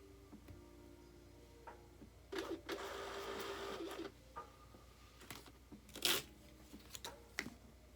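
Shipping-label printer running as it prints a 4x6 label: a whirring burst of about a second and a half starting a couple of seconds in, followed by a few sharp clicks, the loudest about six seconds in.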